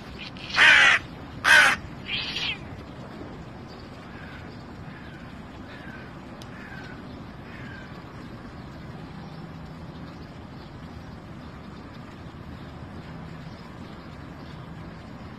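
Three short harsh calls, the first two loud and the third weaker, followed by a few faint short calls that each fall in pitch.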